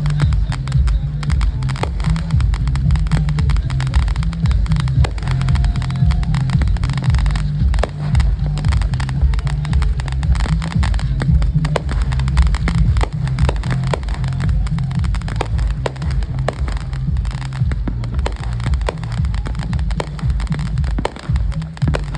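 Fireworks going off, with many small sharp crackling pops over a continuous deep low rumble.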